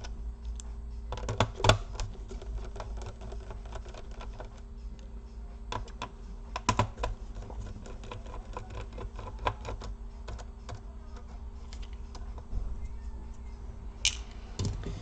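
Small screwdriver clicking and ticking as screws are backed out of a laptop's plastic case: many scattered light clicks, with a few louder taps, over a faint steady low hum.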